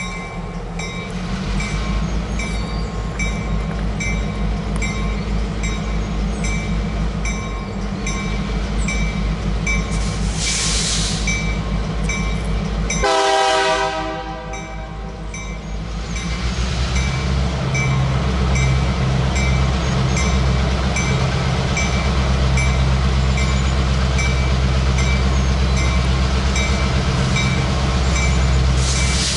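Diesel-powered freight train rumbling past, with a steady low engine drone that grows louder about halfway through. The locomotive sounds a short horn blast about 13 seconds in.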